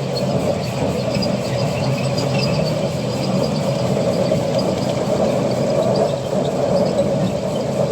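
Miniature ride-on railway train running on its track: a steady, even rumble.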